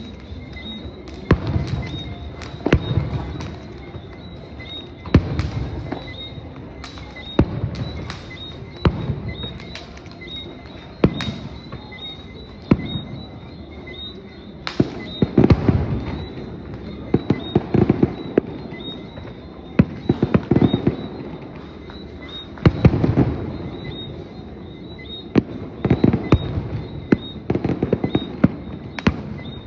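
Fireworks display: aerial shells bursting every second or two, each a sharp bang with a rumbling echo, some in quick crackling clusters.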